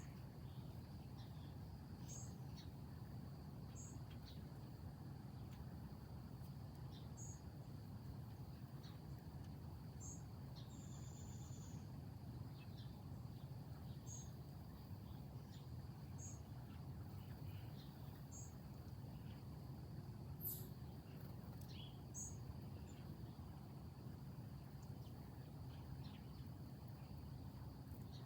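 Steady outdoor insect chorus, a high even drone typical of crickets in late summer. A short high chirp repeats about every two seconds over a low background rumble, with one sharp click about two-thirds of the way through.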